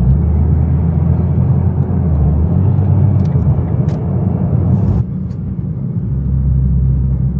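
Cabin noise inside a moving Nissan GT-R R35: its twin-turbo V6 and the tyres make a steady low drone, which turns abruptly quieter about five seconds in.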